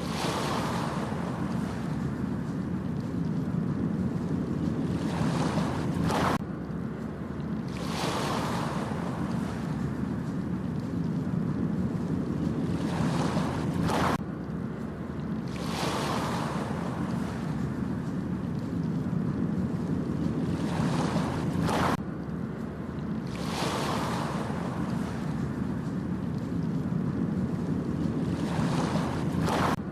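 Ocean surf washing onto a beach in repeated swells over a steady low rumble, with wind buffeting the microphone. The sound jumps abruptly about every eight seconds.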